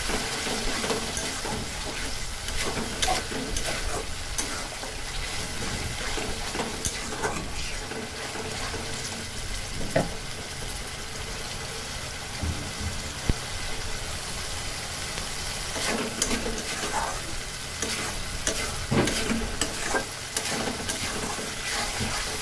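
Ground spice paste sizzling in hot mustard oil in a metal kadai while a metal spatula stirs and scrapes it, with scattered clicks of the spatula against the pan. This is the paste being fried down until its raw smell is gone.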